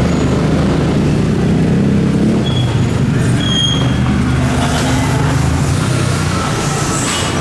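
A motor vehicle's engine running close by in street traffic, with a steady low hum that fades after about five seconds.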